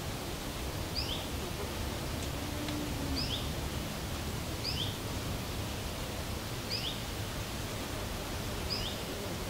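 A small bird repeating a short, rising chirp about every one and a half to two seconds, over a steady outdoor background hiss.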